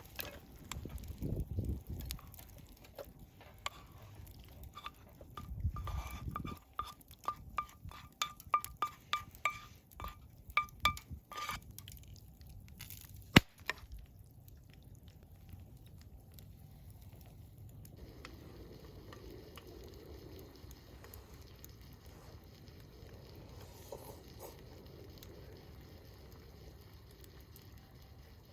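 Ice cubes clinking against a glass: a quick run of light, ringing clinks, about three a second, for several seconds, then one sharp click. A couple of dull handling thumps come before the clinks.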